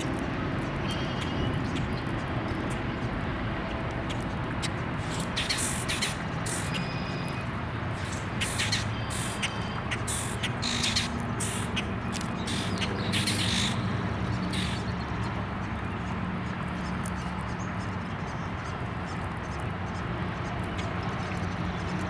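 Birds calling, with a cluster of short, harsh calls in the middle, over steady outdoor noise. A low hum rises in the second half.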